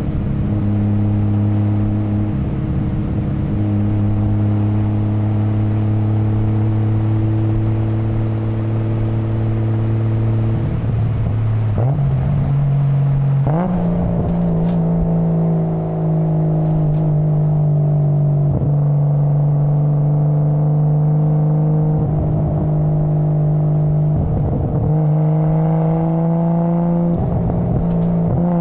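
Nissan Skyline GT-R R33's RB26 twin-turbo straight-six running under steady throttle. Its note holds one pitch for about the first eleven seconds, steps up to a higher pitch about halfway through, then sags slowly, with several brief breaks along the way.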